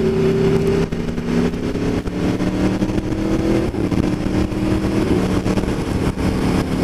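Aprilia Tuono V4 1100 Factory's V4 engine through an Austin Racing exhaust, accelerating on the road. Its note climbs and drops back at each upshift: about a second in, near the middle, and around five seconds in.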